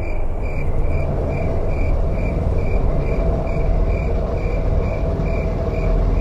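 Spooky sound-effect ambience: a steady low rumble under a high, evenly pulsing tone, about two and a half pulses a second.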